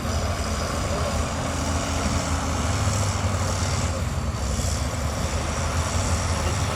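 Heavy diesel earthmoving machinery running steadily under load, a continuous low engine drone with mechanical noise on top.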